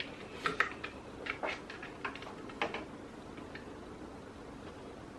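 A scattering of light, irregular clicks and taps from small plastic parts being handled during a syringe printhead cleaning, about eight in the first three seconds, then a faint steady room background.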